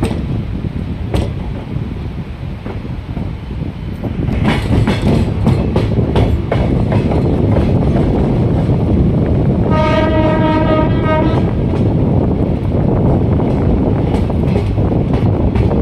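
Passenger train running with a steady rumble that grows louder about four seconds in, wheels clacking over rail joints soon after, and the locomotive's horn sounding once for about a second and a half past the middle.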